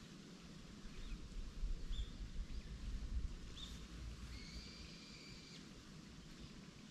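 Birds calling: a few short chirps about a second apart, then one steady whistle lasting about a second, over a low rumble.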